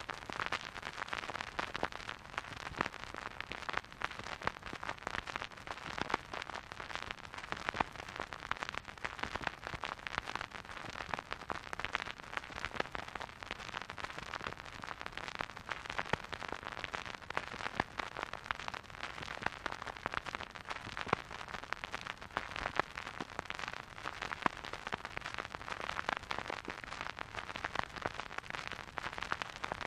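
Vinyl record surface noise from a turntable stylus running in the groove with no music: a steady soft hiss packed with dense fine crackles and pops.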